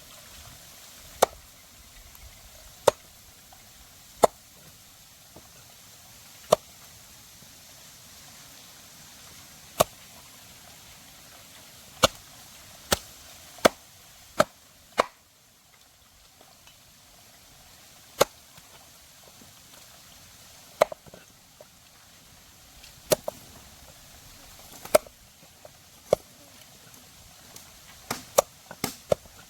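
Single chopping strikes of a blade, about eighteen sharp hits spaced unevenly a second to a few seconds apart, coming faster in a quick run near the end.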